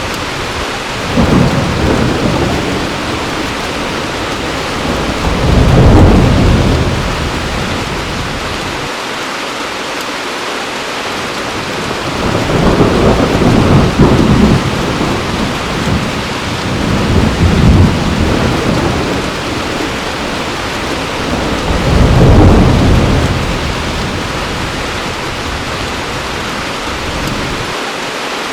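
Heavy rain falling steadily, with several rolls of thunder that swell and fade: one just after the start, a loud one about six seconds in, a long rumbling stretch around the middle, and another loud roll a little past twenty seconds.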